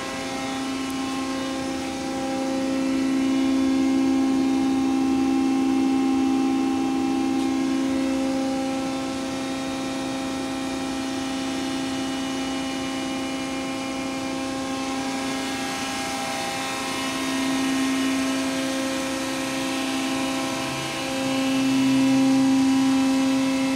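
Hydraulic power unit of a CNC tube bending machine running with a steady, whining hum, swelling louder a few times.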